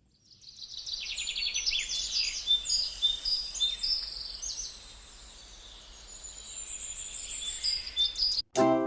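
Birds chirping and trilling in quick, high repeated notes, fading in at the start and cutting off suddenly near the end as music begins.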